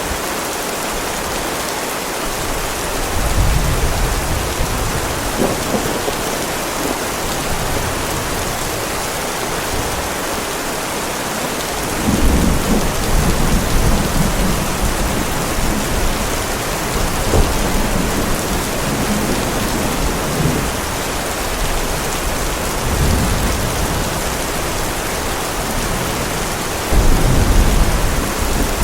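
Heavy rain falling steadily, with rolls of thunder rumbling low beneath it: a short one a few seconds in, a long rolling stretch through the middle, and a sharper rumble near the end.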